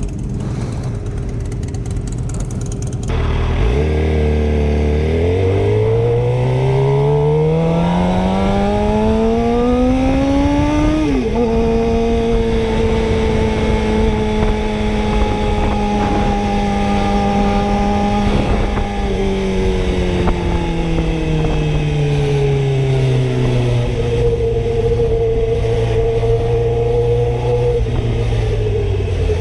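Motorcycle engine, heard from on the bike: it idles briefly, then pulls away with the revs climbing steadily for several seconds. About eleven seconds in the pitch drops sharply at a gear change, then the engine cruises at steady revs. It rolls off gradually and settles at lower steady revs near the end.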